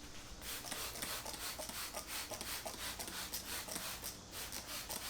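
Sandpaper on a sanding block rubbing back and forth over a plastic headlight lens: hand wet sanding at the 3000-grit stage, a run of quick rasping strokes starting about half a second in.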